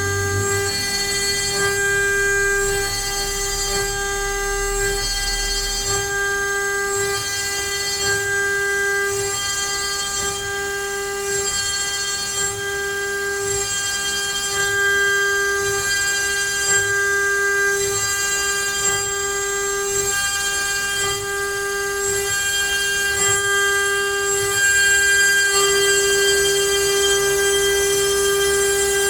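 CNC router spindle running with a steady high whine while its bit cuts letters into pine, the whine swelling and easing every second or two.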